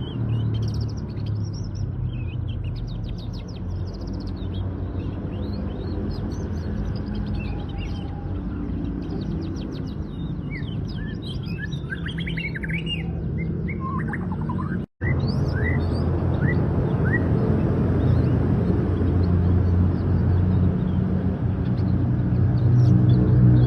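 Canary singing: fast trills and short rising chirps, thinning out in the second half, over a steady low rumble. The sound cuts out completely for an instant about 15 seconds in.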